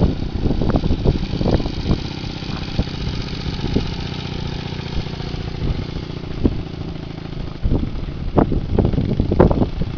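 Motorcycle engine running steadily at low revs, with uneven low bursts of noise near the start and again near the end.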